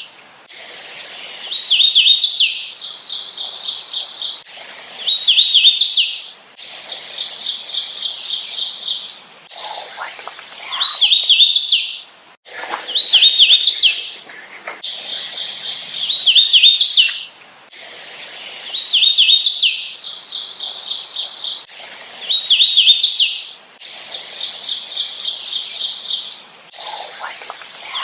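Hooded warbler singing over and over, about eight times. Each song is a loud, clear phrase of slurred whistled notes ending in an emphatic rising flourish. Between songs there is a quieter run of fast repeated high notes.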